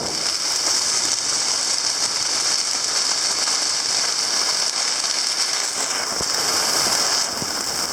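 Heavy rain falling on a sailboat in a storm: a steady, dense hiss.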